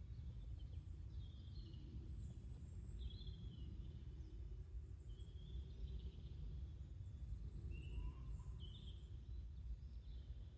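Small birds chirping in short, high calls about once every second or so, over a faint, steady low rumble of outdoor background noise.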